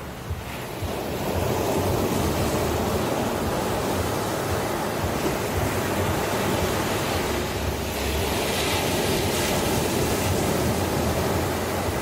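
Ocean surf washing in continuously, a steady rushing noise with no pitch. A swell builds about a second in, and a brighter hiss of wash comes around eight to ten seconds in.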